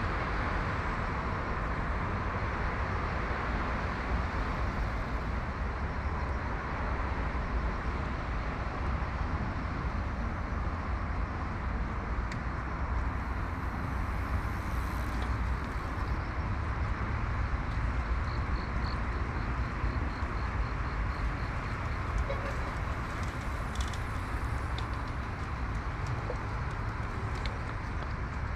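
Steady city traffic noise: a constant hum with a low rumble. A short run of quick, high ticks comes about two-thirds of the way through.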